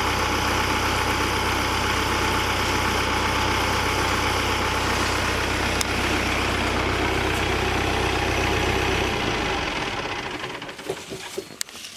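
Tractor engine running steadily at idle. It dies away about nine seconds in, leaving a few faint clicks.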